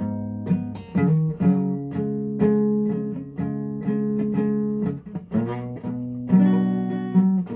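Guitar strumming chords in a steady rhythm, about two strums a second, with a short break about five seconds in.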